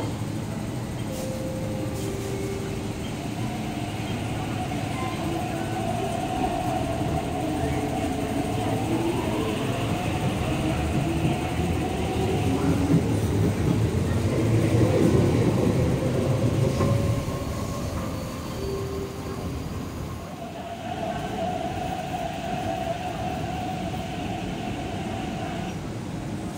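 MTR East Rail Line electric train pulling out of the station. Its traction motors whine up in pitch as it gathers speed, and the rumble of the cars running along the track grows to its loudest about halfway through. After that the sound drops back to a steadier hum near the end.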